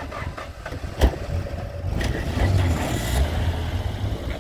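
A car door shuts with a thump about a second in. About two seconds in, the old sedan's engine starts and runs steadily, getting a little louder.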